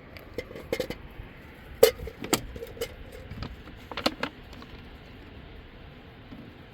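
Irregular light clicks and knocks of hard objects being handled, about a dozen over the first four seconds, a few with a short ring.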